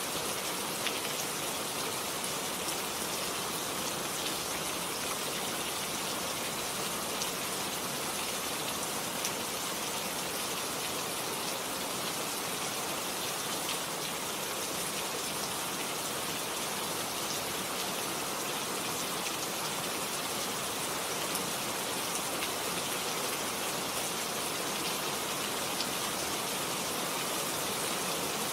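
Steady rain falling on a garden, an even hiss with many small drop ticks.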